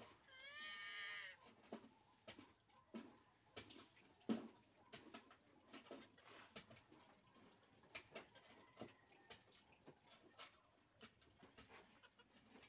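Quiet chewing of a crunchy biscuit: scattered soft crunches and mouth clicks. About half a second in, a single wavering animal call lasts about a second, the loudest sound here.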